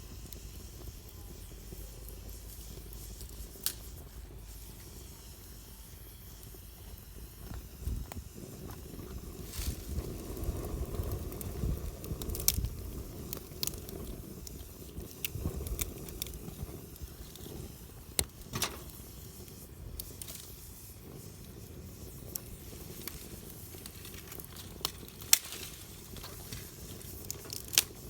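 Wood campfire burning: irregular sharp pops and crackles over a low, steady rumble of the flames, busier and louder around the middle.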